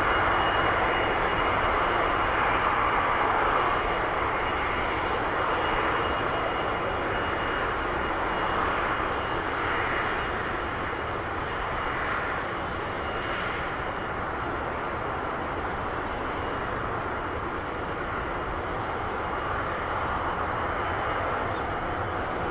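Jet engines of a Japan Airlines Boeing 777-200ER: a steady roar with a thin high whine, slowly easing in loudness.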